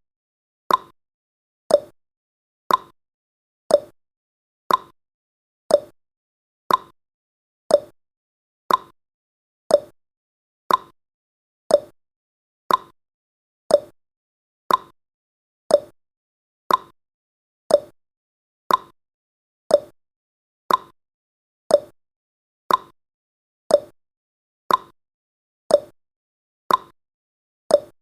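Countdown timer's clock-tick sound effect: one sharp tick per second, alternating slightly higher and lower in pitch like a tick-tock.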